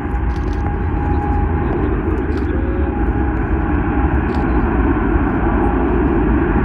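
Jet airliner engine noise: a loud, steady rush with a faint steady whine in it.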